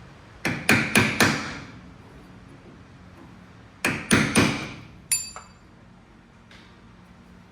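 Hammer blows, metal on metal, driving out the roll pin that joins the steering shaft to the steering box: a quick run of four strikes, then three more, then one final strike that leaves a short metallic ring.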